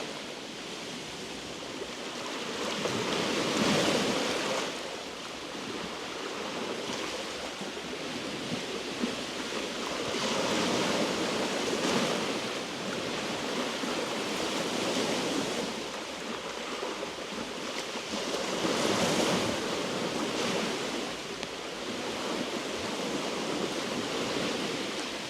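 Small sea waves washing over a rocky shore, a steady wash that swells and fades as each wave comes in, three or four times.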